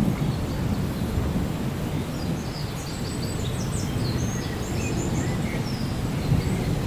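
Steady rain with a low rumble of thunder. A bird chirps in quick high notes through the middle.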